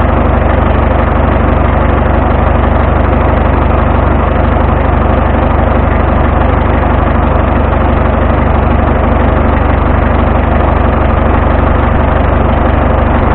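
Vintage tractor engine running steadily with a constant low hum.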